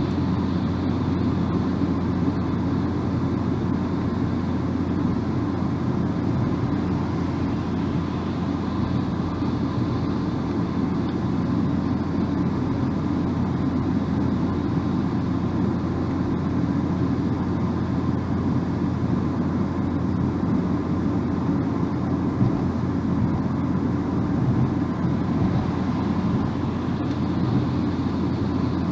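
Steady low drone of a car driving at speed: tyre and road noise with engine hum, unchanging and without distinct events.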